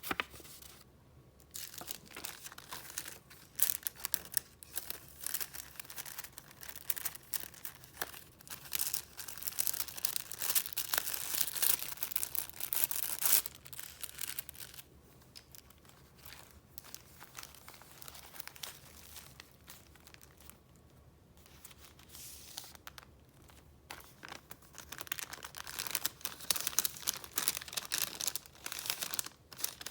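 Paper handled by hand: rustling, crinkling and crackling as sheets are moved and turned. The crackling is densest in the middle and again near the end, with a quieter stretch in between.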